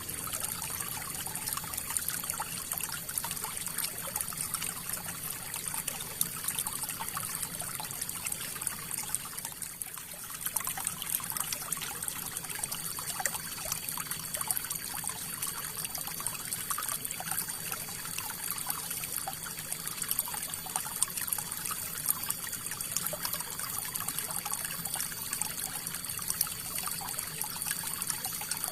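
River water flowing, a steady trickling and splashing rush.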